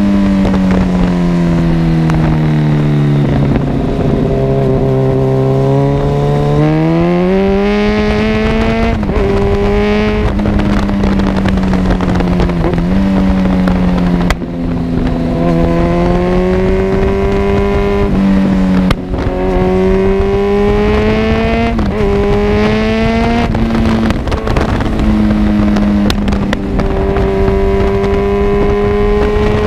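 Kawasaki Z1000 inline-four running through an Arrow full-system exhaust while being ridden, its revs falling, rising and stepping as the bike accelerates and changes gear, with two brief sharp cuts in the sound about halfway through.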